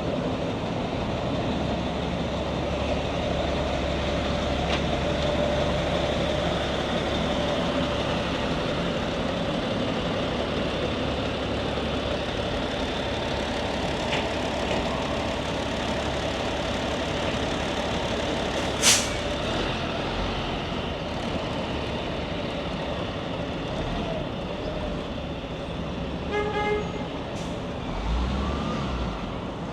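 Heavy city street traffic, a steady wash of engines and tyres from passing trucks and cars. A single sharp bang comes about two-thirds of the way through, and a brief pitched beep near the end.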